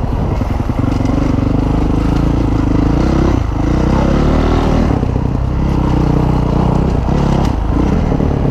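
Dirt bike engine running steadily under way, its pitch dipping briefly a few times.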